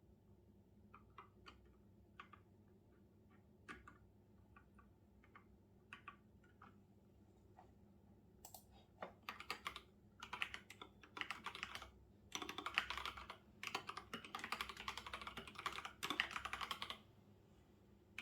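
Typing on a computer keyboard. A few scattered keystrokes come first, then from about halfway there are fast, dense runs of typing in several bursts, stopping about a second before the end.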